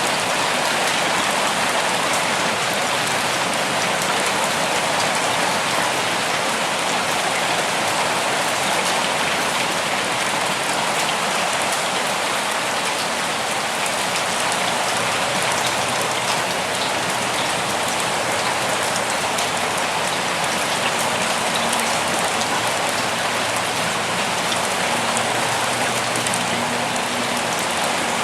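Steady rain falling in a forest, a dense, even patter of drops that does not let up.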